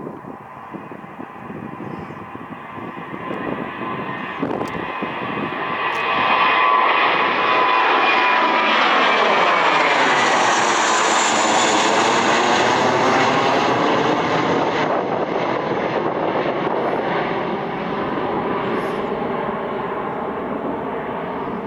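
Jet airliner taking off and passing by: the engine noise swells over several seconds, holds at its loudest with a sweeping, phasing sound as the aircraft goes past, then slowly fades.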